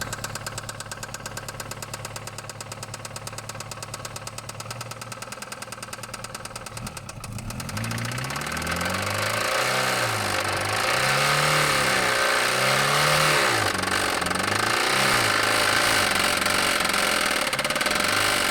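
2000 Toyota Corolla four-cylinder engine running with a rapid knock, then revved up and down repeatedly and louder from about seven or eight seconds in. The engine is failing and about to let go.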